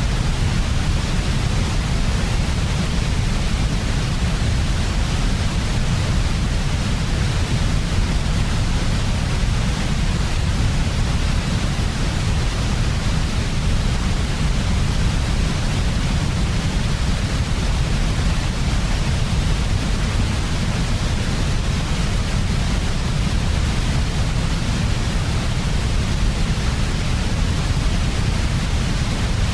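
Steady synthetic noise for sleep, an unchanging hiss with a strong low rumble underneath and no rhythm or pattern.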